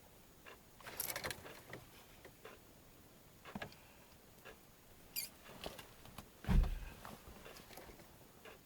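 Faint scattered clicks and rustles, with one dull low thump about six and a half seconds in; no engine is running.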